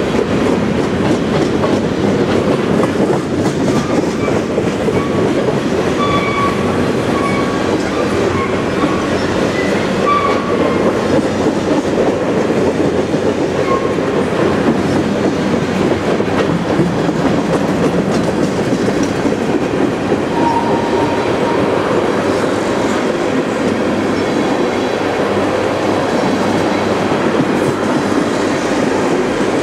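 Freight cars of a long CN freight train (covered hoppers and tank cars) rolling past at trackside, with a steady rumble and clatter of steel wheels on rail. A few brief, faint high squeals come in the first half and once more about twenty seconds in.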